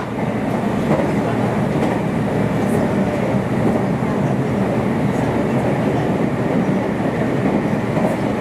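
Meitetsu limited express train running at speed: a steady rumble of the running gear with light clickety-clack from the rails.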